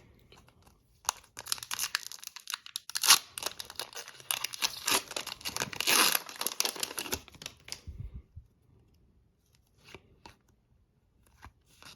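Foil wrapper of a hockey card pack being torn open and crinkled, loud and crackly for several seconds, then stopping about eight seconds in, leaving only a few faint clicks of cards being handled.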